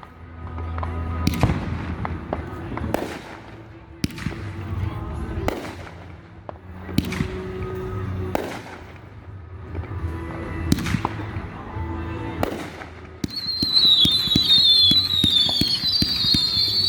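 Fireworks display: aerial shell bursts banging about every second or so over music. Near the end a dense flurry of crackling breaks out, with several high whistles gliding slowly downward.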